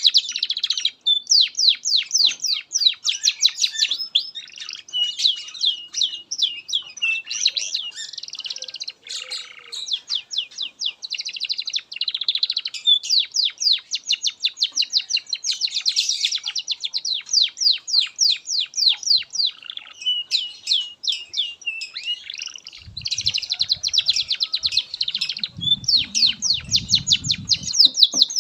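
Domestic canary singing a long, continuous song of fast repeated trills and rolls, with hardly a break. A low rumble sounds under the song for a few seconds near the end.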